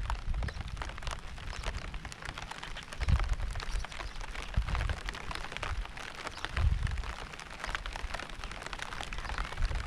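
Steady rain, a dense pattering of many small drop ticks, with three deep, short low rumbles in the middle.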